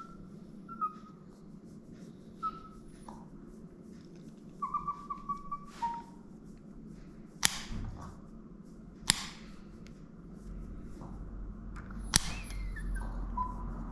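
Small Maltese-mix dog giving short, high-pitched whimpers and whines while her nails are being clipped. Three sharp clicks from the nail clipper cutting through nails are the loudest sounds.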